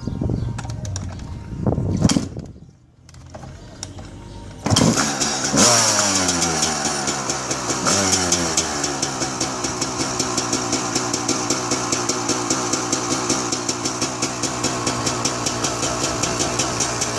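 Dirt bike engine being started: it catches suddenly about five seconds in, is revved up twice, then settles into a steady, evenly pulsing idle.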